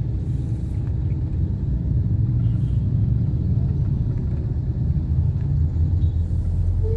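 Road traffic in a building jam, heard as a steady low rumble of engines and tyres.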